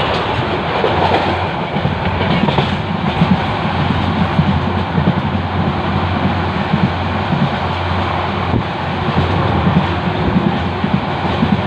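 Passenger train running along the track, heard from aboard a moving coach: a steady, loud rumble and rattle of wheels on the rails.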